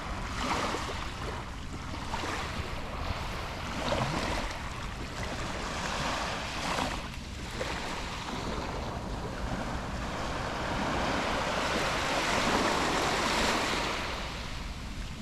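Waterfall water rushing in a steady noisy wash, with wind buffeting the microphone in swells, strongest near the end.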